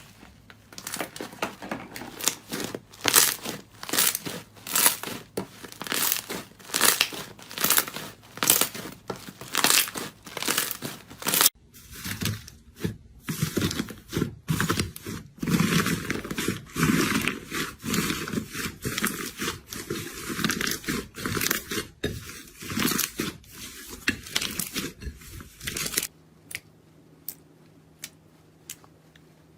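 Crunchy material being squeezed and crushed, giving repeated crisp crunching and crackling strokes. The sound changes to a different recording about a third of the way in. Near the end it drops to a few sparse clicks over a faint steady hum.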